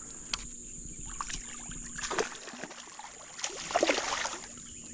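Water splashing and sloshing beside a kayak as a hooked spotted bass thrashes at the surface, with a sharp knock about a third of a second in. The two splash bursts come about two seconds in and between three and a half and four seconds, the second the louder.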